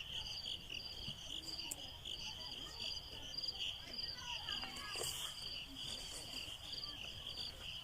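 Crickets chirping in a steady high-pitched chorus, pulsing about twice a second.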